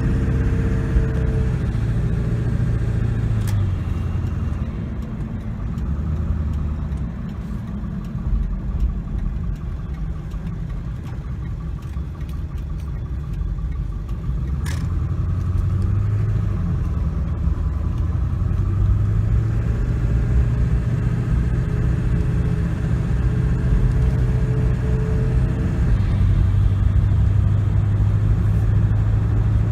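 2001 Ford F-250's 7.3-litre Powerstroke turbo-diesel V8 running as the truck is driven. The engine note steps down in pitch about four seconds in and again near the end, as the automatic transmission shifts up.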